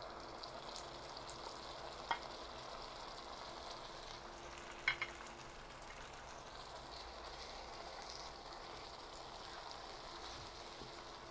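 Blended moringa leaf paste frying gently in hot oil with garlic and onion, a steady low sizzle. Two light knocks of a wooden spatula about two and five seconds in.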